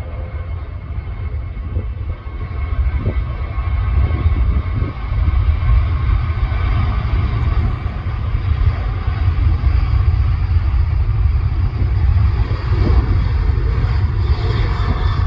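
Jet airliner engines rumbling steadily, a deep sound that swells about four seconds in and stays loud, with a faint high whine above it.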